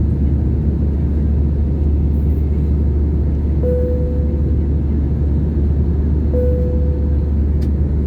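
Steady cabin rumble of an Airbus A320 climbing after takeoff, its two CFM56-5B engines and airflow heard from a window seat. Two short single-tone cabin chimes sound a few seconds apart, each fading quickly.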